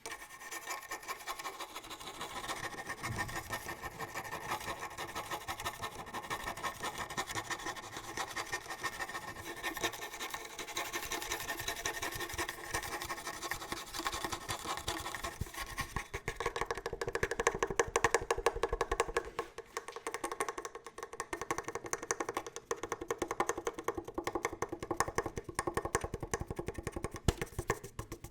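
Fast ASMR tapping and scratching on a hard object: a dense, rapid run of quick taps with a faint ring, which changes tone and gets a little louder about halfway through.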